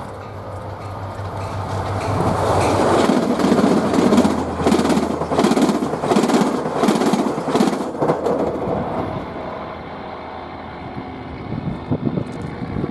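A train passing close by: a rumble that builds over the first few seconds, then a run of rhythmic clacks as wheels cross rail joints, easing off after about eight seconds.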